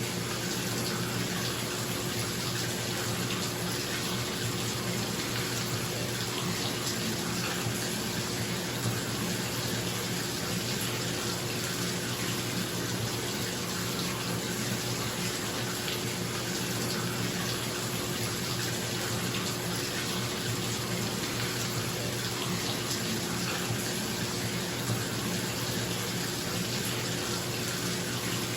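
Tap water running steadily into a bathtub, a constant rushing splash, with a bathroom exhaust fan's steady low hum underneath.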